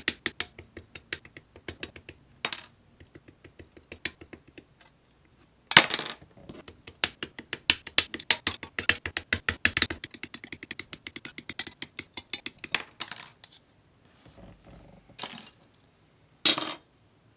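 Rapid clicking and light clattering of small hard objects being handled at a workbench, in quick runs with short pauses, densest in the middle; two brief swishes near the end.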